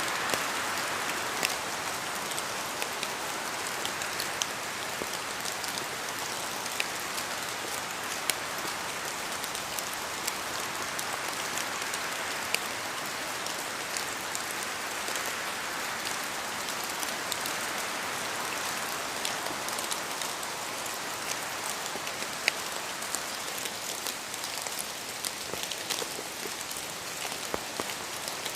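Steady rain falling in a forest, a constant hiss with scattered louder drops falling from the trees and hitting close by.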